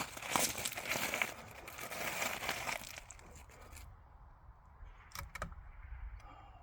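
Rustling and scuffing of a shooter's clothing and gear as he moves and settles into a new shooting position. It goes quiet about three seconds in, with a couple of sharp clicks a little after five seconds in.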